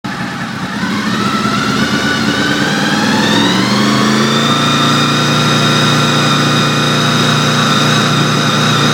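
Honda VFR800's V4 engine being revved up over the first few seconds and then held steady at a raised speed. It misfires at around 3,800 rpm, and the owner wonders whether a failing throttle position sensor is the cause.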